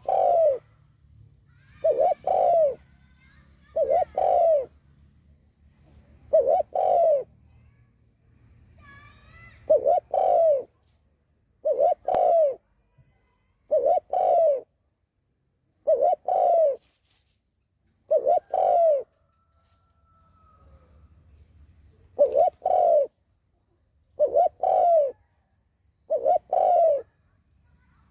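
Spotted dove cooing: a loud, low, two-part coo repeated about every two seconds, with one longer pause partway through. A few faint higher chirps come about a third of the way in.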